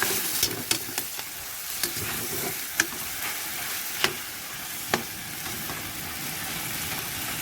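Chicken pieces sizzling as they sauté in a pan for tinola, with a steady frying hiss and a utensil clicking against the pan several times as it is stirred.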